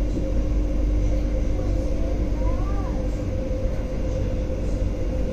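Singapore MRT train running at speed, heard from inside the carriage: a steady low rumble of wheels on rail with a constant hum over it.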